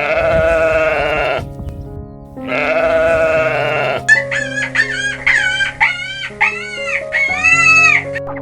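Two long, wavering bleats, then a quick run of about seven short, high calls that rise and fall, over soft piano music.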